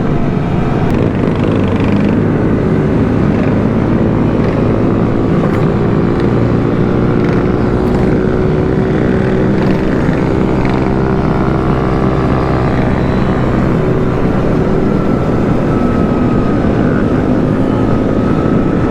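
Small motorcycle engines, such as Honda Groms, running steadily in a group ride, under heavy wind rumble on the moving microphone. One engine note climbs slightly near the end.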